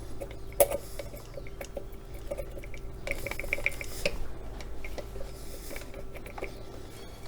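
Scattered light metallic clicks and taps as an engine cylinder barrel and base gasket are worked down over the piston, with one sharper click about half a second in and a quick run of small clicks around the middle, over a faint steady hum.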